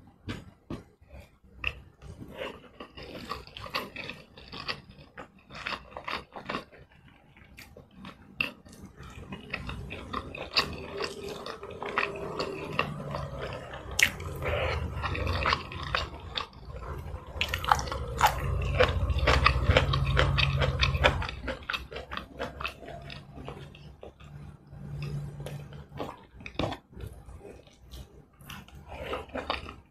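Close-miked eating by hand: chewing mouthfuls of rice and curry, with many small wet smacks and clicks of the lips and mouth, louder and deeper for a few seconds around two-thirds of the way through.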